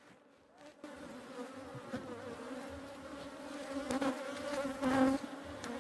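A swarm of honey bees buzzing around an open hive, a steady droning hum that starts about a second in and swells louder twice near the end.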